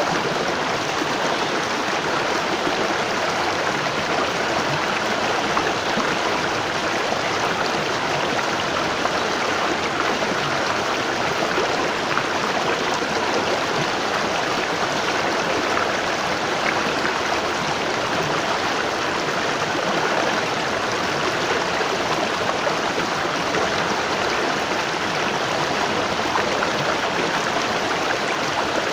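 Waterfall: water falling and splashing in a steady, even rush, with no pauses or changes.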